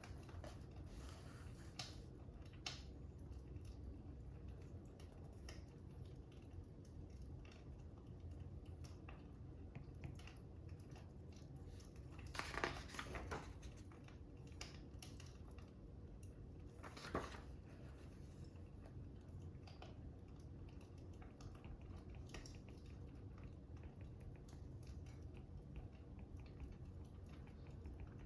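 Fire crackling quietly over a steady low rumble, with scattered small pops and two louder bursts of crackles, about twelve and seventeen seconds in.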